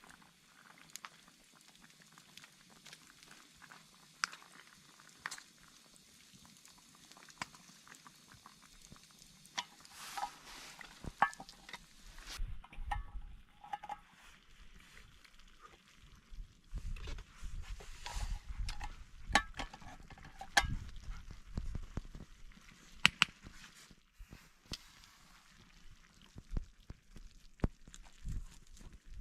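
Irregular handling sounds: scattered sharp clicks and taps, with clusters of low thumps and rustling starting about ten seconds in and again past the middle.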